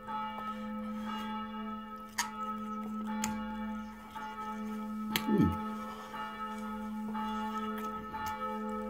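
Eating sounds: mouth clicks and smacks while chewing a handful of fufu, with a short falling hum of enjoyment about five seconds in. A steady hum of several held tones lies underneath.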